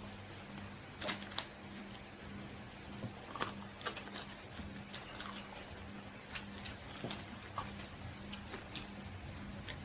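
Close-up eating sounds: irregular wet mouth smacks and small clicks of someone chewing and eating curry, over a steady low hum.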